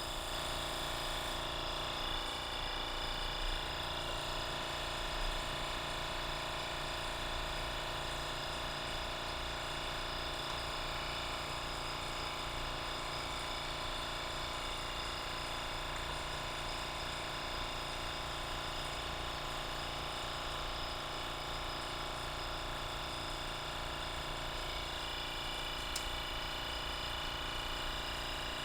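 Steady machine hum with several constant tones from a Mitutoyo RA-1500 roundness measuring instrument running, with one faint tick near the end.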